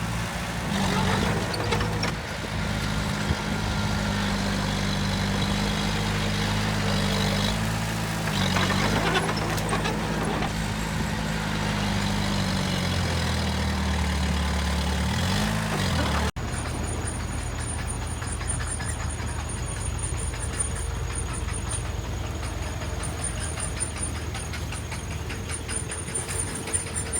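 Heavy construction machinery's diesel engine running steadily. Its note drops lower a little past the middle and then swings back up. It then changes abruptly to a noisier engine sound with a thin, steady high whine over it.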